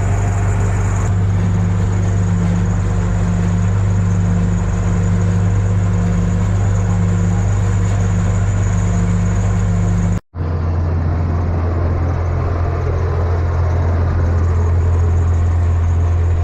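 Small tourist-railroad locomotive's engine running steadily under throttle, a deep, even drone. About ten seconds in the sound drops out for an instant and the drone resumes slightly changed.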